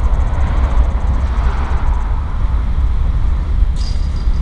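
BNSF diesel freight train moving slowly, a steady low rumble.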